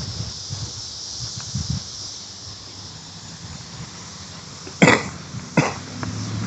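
A person coughing twice, short sharp coughs under a second apart near the end, over a steady high hiss of insects.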